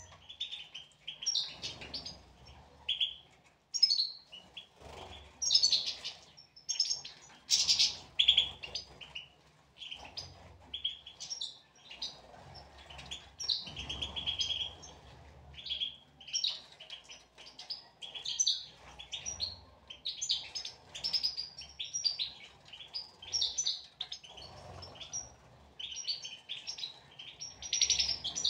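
European goldfinches twittering, a dense run of quick, high chirping calls with no break.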